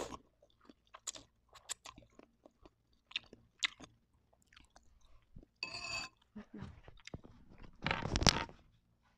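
Close-up mouth sounds of eating Indomie instant noodles: chewing, biting and slurping, with many small clicks. Near the end comes a louder burst of handling noise as a hand reaches for the recording phone.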